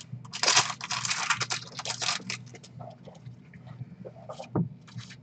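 Baseball trading cards being flicked and slid through the hands: a quick run of papery rustles and flicks for about two seconds, then scattered lighter clicks and rustles.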